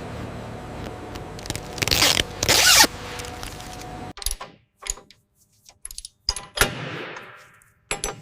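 Workshop noise: a steady mechanical hum with two loud rasping scrapes, then after a sudden cut a series of separate short clicks and knocks.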